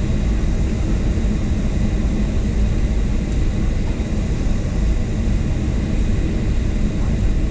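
Boeing 737-800's CFM56-7B jet engines running steadily: a constant deep rumble with airflow hiss and a faint steady whine, with no change in pitch.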